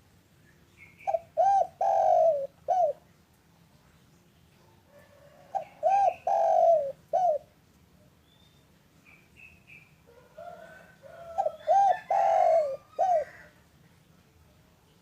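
Spotted dove (derkuku) cooing: three phrases, each of a few short coos running into a longer drawn-out one, about four seconds apart. Faint high chirps of small birds come in between.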